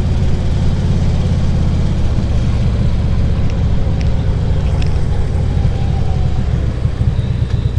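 Harley-Davidson Ultra Classic Limited V-twin motorcycle engine running steadily while riding, with an even rush of air and road noise above it.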